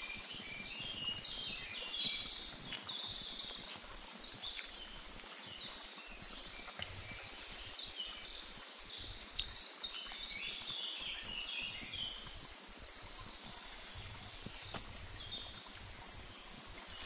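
Songbirds singing, a busy run of short chirps and warbles that carries on throughout, over a soft outdoor hiss. A few faint clicks come through, fitting a small campfire crackling.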